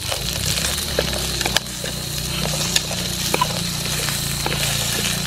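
Pork ribs and garlic sizzling in a metal pan over a crackling wood fire, with a utensil clicking against the pan as they are stirred. A low steady drone runs underneath.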